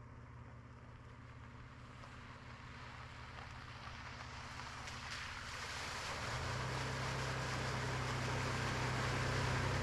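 A vehicle engine running steadily, growing louder, with its low hum strengthening about six seconds in.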